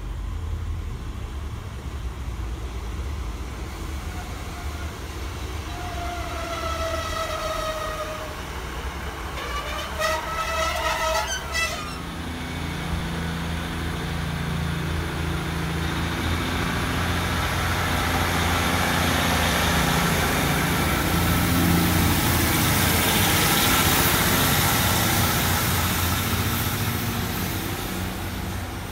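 Two-car Class 150 Sprinter diesel multiple unit sounding its horn twice, about 6 and 10 seconds in, the second a louder two-note blast. Its diesel engines and wheels on the rails then swell to a loud rumble and roar as it runs past close by, easing near the end as it moves away.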